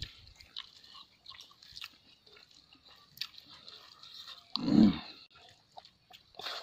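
Close-miked eating sounds: chewing and lip-smacking of food eaten by hand, with small wet clicks throughout. About four and a half seconds in there is one short, louder, low sound.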